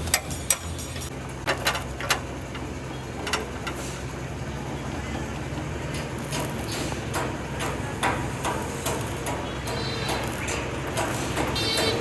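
Scattered sharp knocks and taps, most of them in the first few seconds, over a steady low hum, with faint voices near the end.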